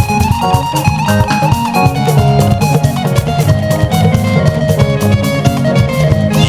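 Live gospel band playing an instrumental passage: guitar lines over bass and a steady drum-kit beat.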